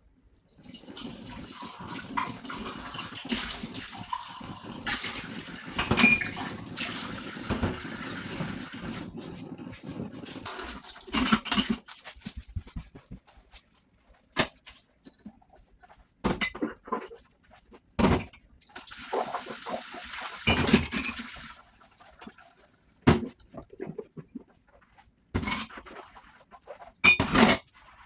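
Tap water running into a sink while dishes are washed by hand, with dishes clinking and knocking. The water stops about eleven seconds in, leaving scattered clinks and knocks of dishes being handled, then runs again briefly about twenty seconds in.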